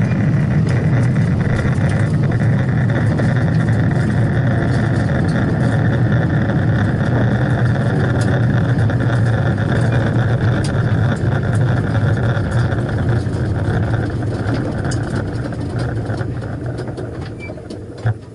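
Drag car engine running loudly and steadily, then fading away over the last few seconds.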